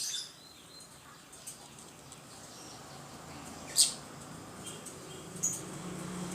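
Lovebirds chirping: scattered short, shrill calls, the loudest a sharp squawk about four seconds in, over a low steady hum.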